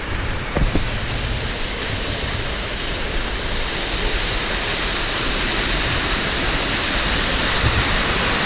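Waterfall's falling water rushing steadily, growing slightly louder toward the end, with a brief low thump about half a second in.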